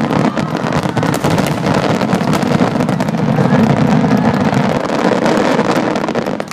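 Dense fireworks barrage: many shells bursting in quick succession, merging into one continuous rumble full of sharp crackles, that falls away shortly before the end.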